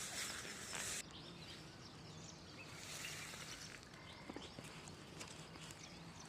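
Outdoor morning ambience with birds chirping faintly, many short scattered calls. A steady high hiss cuts off suddenly about a second in.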